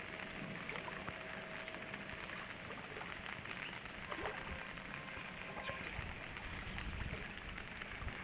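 Steady rush of the flooded Narmada river, with a regular high-pitched chirp repeating a little under twice a second over it and some low rumbles in the second half.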